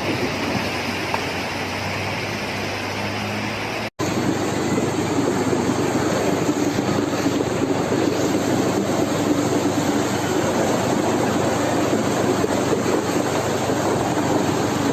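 Steady rushing noise with no clear pitch, broken by a brief dropout about four seconds in; the same kind of noise continues after it.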